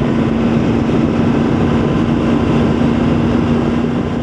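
Triumph Tiger 900 motorcycle cruising at a steady speed: wind rushing over the rider's microphone with the three-cylinder engine running steadily underneath as a constant hum.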